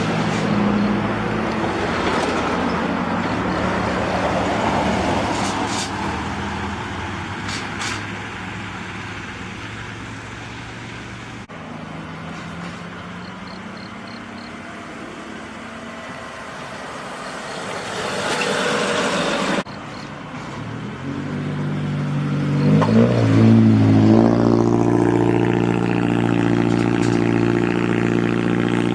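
Heavy trucks' diesel engines running at low speed, the sound changing abruptly a couple of times; near the end an engine revs briefly and settles into a steady, louder run.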